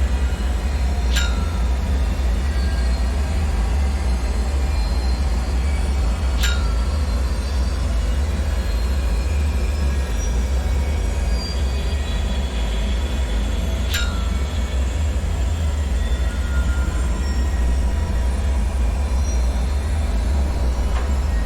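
Dark bunker ambience: a steady deep rumble under a constant hiss, broken three times by a short, sharp tick or drip, with a fainter one near the end.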